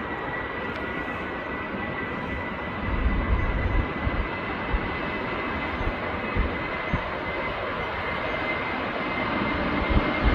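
Boeing 737 jet engines running on the takeoff run, a steady roar with a high whine that grows louder near the end. A few low thumps sound in the first half.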